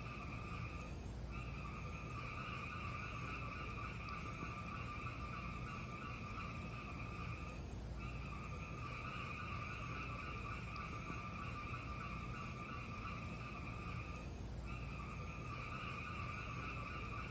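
Fireplace fire burning with a steady hiss over a low rumble and occasional faint crackles; the hiss dips briefly about every seven seconds, as in a looped recording.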